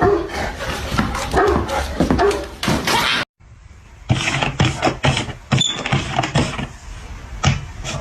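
A dog barking and whimpering for about three seconds, cut off suddenly. Then comes a run of sharp knocks and clatter.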